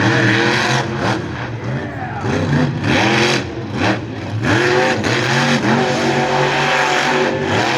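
Monster truck engine revving, its pitch rising and falling several times as the throttle is worked.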